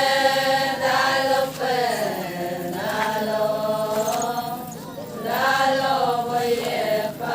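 Singing of an Adi Ponung chant: long held vowel notes that rise and fall slowly in pitch, with a swell near the start and another about five seconds in.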